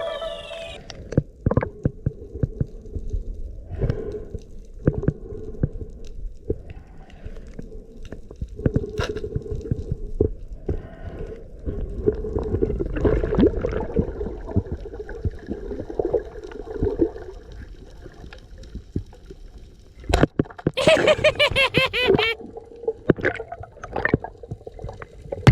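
Underwater sound on a diver's camera: a low watery rumble and gurgling with many scattered clicks, and a louder, busier stretch near the end.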